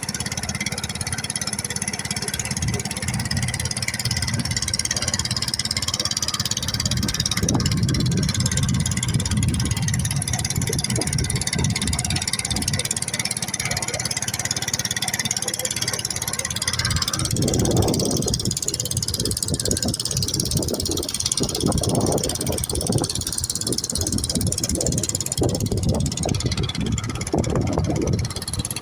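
Motorboat engine running steadily underway, a low even hum. From a little past halfway, irregular low rumbles come and go over it.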